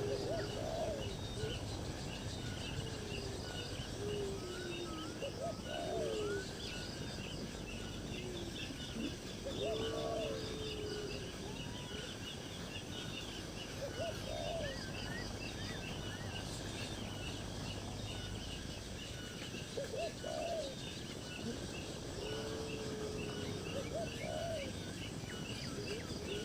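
Birds chirping: many short, high chirps throughout, with a lower, arching call repeating every three to four seconds.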